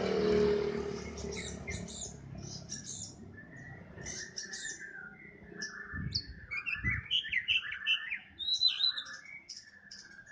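Oriental magpie-robin (kacer) calling and singing: short sharp chirps, then busier warbled phrases in the second half. A passing vehicle fades out in the first second, and there are two dull thumps about midway.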